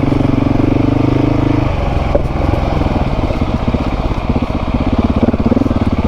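Motorcycle engine running steadily, then changing about two seconds in to a lower, uneven pulsing.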